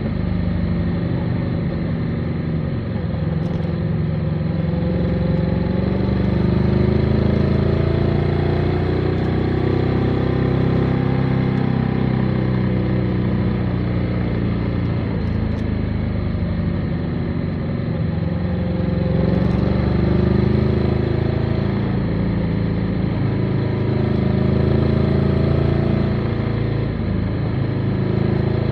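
Motorcycle engine running on the move, its pitch rising and falling several times as the rider opens and closes the throttle.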